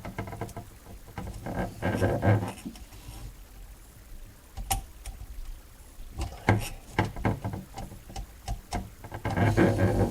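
Irregular clattering, knocks and scraping from plumbing work under a sink as a drain snake and pipe parts are handled. There are clusters of knocks about two seconds in and again through the last four seconds, with a quieter stretch in between.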